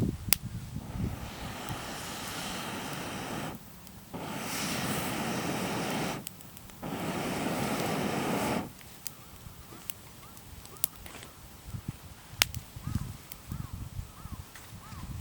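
Three long rushing whooshes, each about two seconds with short breaks between, followed by a small wood fire crackling with scattered sharp pops.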